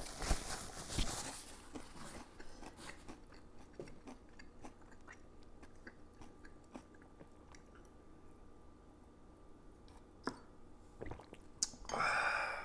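A person chewing and crunching food close to the microphone. The crunching is loudest in the first second or so, then gives way to quieter scattered clicks of chewing, with a short louder noise near the end.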